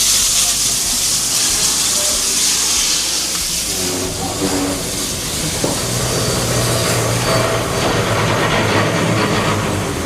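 Steam locomotive letting off a loud hiss of steam, with a low steady hum joining about four seconds in.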